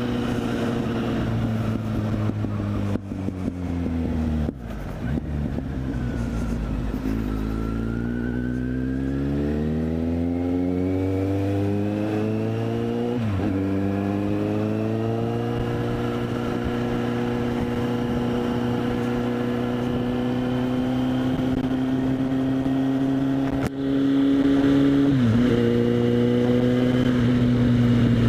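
Kawasaki Z800's inline-four engine through a LeoVince SBK aftermarket exhaust, ridden on the road and heard from a helmet-mounted microphone. The engine note falls off for the first few seconds as the bike slows, then rises steadily under acceleration. Two brief dips in the note, about 13 and 25 seconds in, are gear changes, with steady cruising between them.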